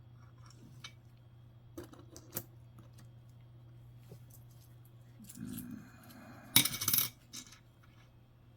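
Nickels clinking as they are handled: a few light separate clicks, then a brief rattle and a louder metallic clatter of coins lasting about half a second, followed by one last click.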